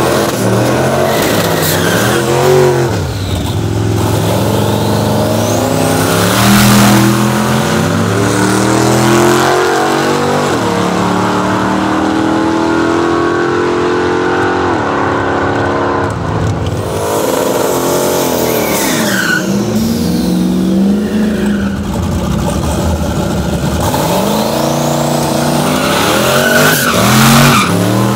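Twin-turbo 6.0-litre LS V8 in a drag-raced Toyota Starlet, run hard under wide-open throttle. Its pitch climbs under acceleration and falls off several times across launches and passes down the strip.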